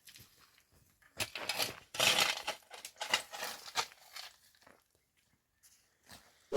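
Stones being handled and shifted: irregular scraping and clinking bursts, then a sharp knock right at the end.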